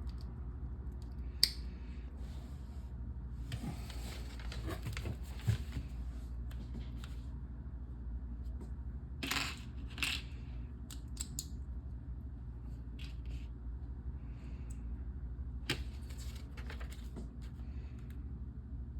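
LEGO pieces clicking and rattling as they are handled and pressed together, in scattered sharp clicks with a louder one about a second and a half in and small clusters around the middle, over a steady low hum.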